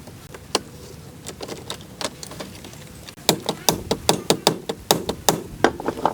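Repeated hammer blows. A few scattered strikes come first, then a fast, even run of about five a second in the second half.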